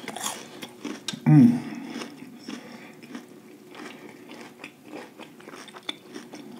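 Close-miked chewing of crispy panko-fried lobster tail: crunching with many small wet crackles. About a second in there is a loud, short hummed vocal sound of enjoyment.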